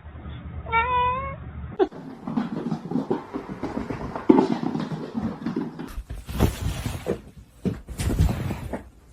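A cat meows once about a second in, a single short call whose pitch wobbles. Then comes a few seconds of scraping, rustling and sharp knocking noises.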